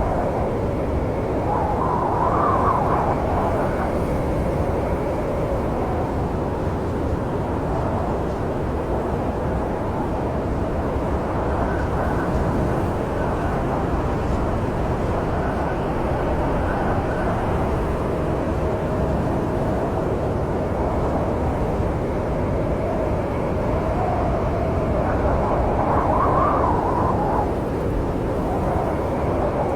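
Snowstorm wind: a steady low rushing howl that swells into two stronger gusts, one about two seconds in and one near the end.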